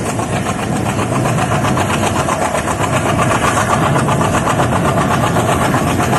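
ALCO diesel-electric locomotive engine running steadily with a rapid, even pulsing beat.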